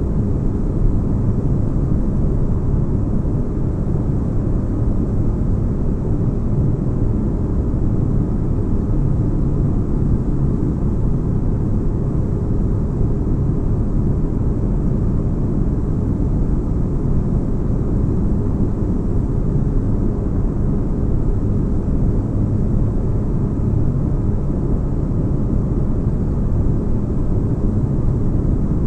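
Sci-fi spaceship interior ambience: steady deep-bass white noise with a faint low hum beneath it, unchanging throughout.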